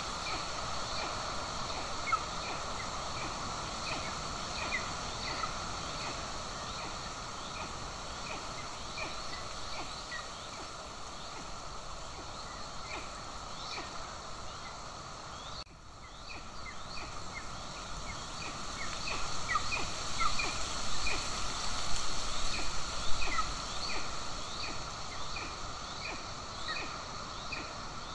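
A rapid, regular series of short, high bird chirps, about two a second, over a steady hiss, with louder irregular knocks and rustles in the second half.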